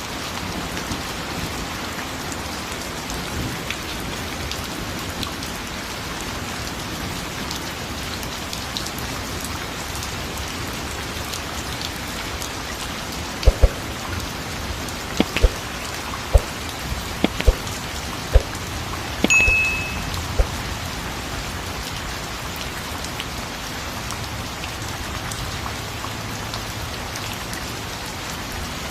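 Steady rain falling on a surface. A handful of sharp, loud taps come about halfway through, followed by a short low rumble.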